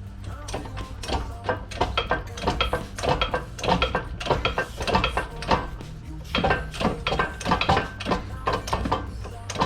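Irregular metallic clinks and knocks of steel parts and tools being handled and set together, with background music underneath.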